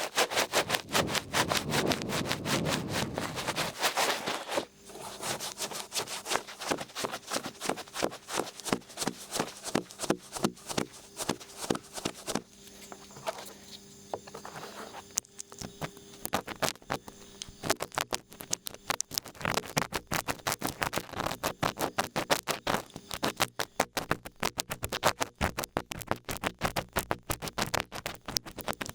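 Large ear pick scraping and scratching against a microphone's ear, a rapid run of close, crackly scratches that thins out for a few seconds near the middle.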